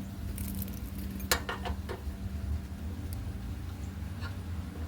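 A few light metallic clicks and clinks of tools being handled, clustered about a second in with single ones later, over a steady low hum.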